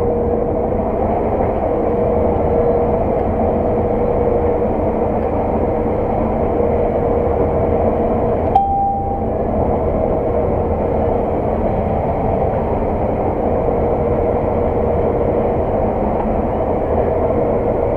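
Steady drone of a Claas Lexion 600 TerraTrack combine harvester at work, heard from inside its cab, with a constant whine running through it. About halfway through there is a single click and a short, higher tone.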